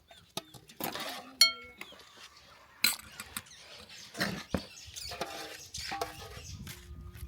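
Dishes and metal utensils clattering: a series of sharp knocks and clinks, one ringing briefly about a second and a half in and a loud strike about three seconds in.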